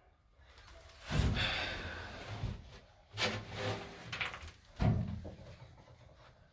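Three loud bumps with scraping, the first about a second in, as interior covering is worked loose from the van wall around a window.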